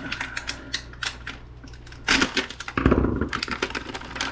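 Rapid clicks and scraping of a tool prying resin-potted parts out of a fluorescent light ballast, with a louder clatter of knocks about two seconds in.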